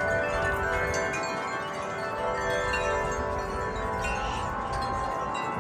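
Several sets of metal wind chimes ringing in strong wind, many overlapping tones sounding at once without pause.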